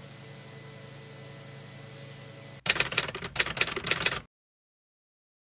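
Faint steady hum, then a loud burst of rapid clicks lasting under two seconds that cuts off into dead silence.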